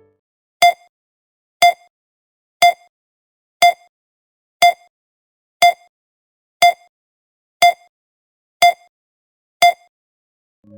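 Ten short electronic beeps, one a second, all at the same pitch, with silence between them.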